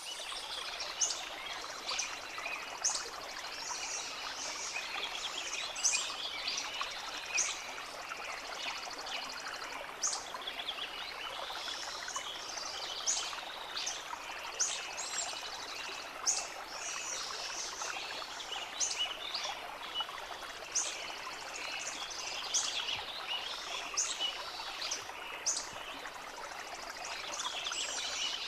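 Steady rush of a flowing stream, with birds chirping over it: short, high calls every second or so, several birds at once.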